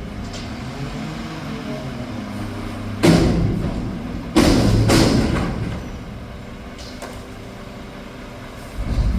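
Street traffic: a steady low engine hum, then two sudden loud rushes of noise about three and four and a half seconds in that each fade over a second or so.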